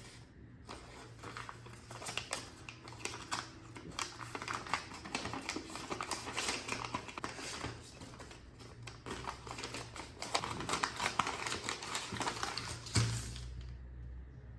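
Many irregular light clicks and taps, with a somewhat louder knock near the end, over a steady low hum.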